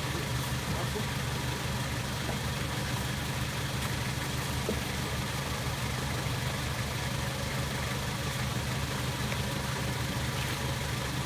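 A vehicle engine running steadily, a low, even drone with a fast regular pulse that does not change.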